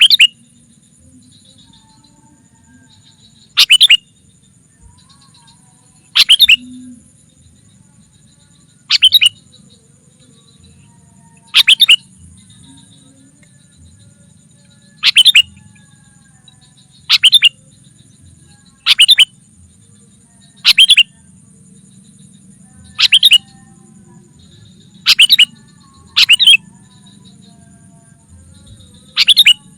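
Sooty-headed bulbul giving a short, loud call over and over, about every two to three seconds: a lure call used to attract wild bulbuls.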